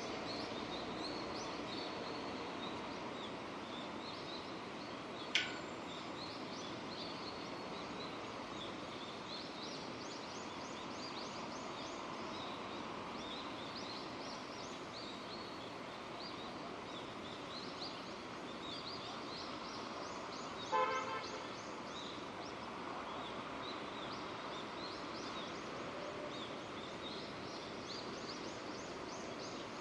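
Steady rain falling, with birds chirping again and again over it. A sharp click comes about five seconds in, and a short car horn toot about twenty-one seconds in.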